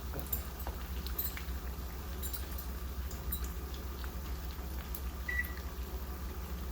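Spring rolls deep-frying in hot oil: scattered light crackles and pops over a steady low hum, with a short high beep about five seconds in.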